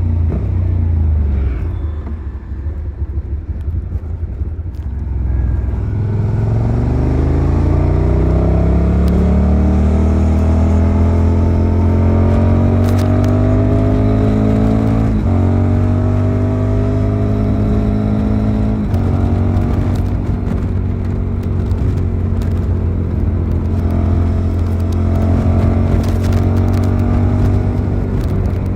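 Suzuki SV650's V-twin engine under way: the revs fall and it goes quieter for a few seconds, then the engine pulls up steadily through the revs. Two short dips in pitch, about halfway and a few seconds later, mark upshifts, after which it holds a steady pitch.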